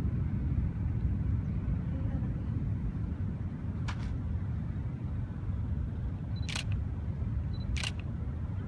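Camera shutter clicks: three sharp clicks spaced a few seconds apart, over a steady low rumble.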